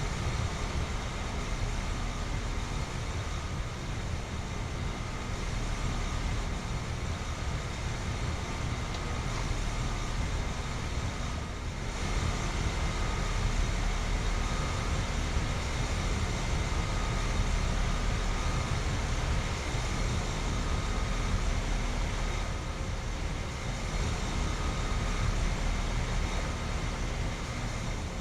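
ICP/Comfortmaker 2-ton central air conditioner condensers with Copeland scroll compressors running steadily: condenser fan rush over a low compressor hum, with a faint steady high tone.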